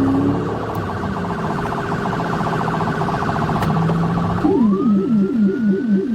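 Police car sirens in a chase: a fast pulsing siren tone that, about four and a half seconds in, switches to a rapid yelp sweeping up and down about four times a second, with a slower wail rising over it.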